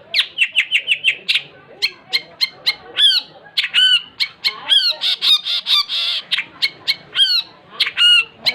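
Long-tailed shrike (cendet) singing hard: a fast, dense string of sharp, harsh notes, with quick chattering runs and repeated downward-sliding calls.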